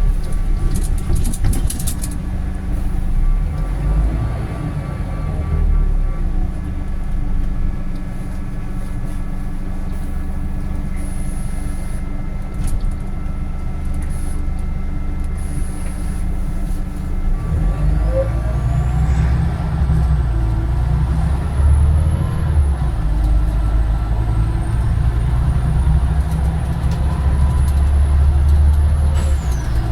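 Scania OmniDekka double-decker bus heard from on board: the engine runs steadily at low revs, then about eighteen seconds in it gets louder and its pitch rises with a climbing whine as the bus accelerates.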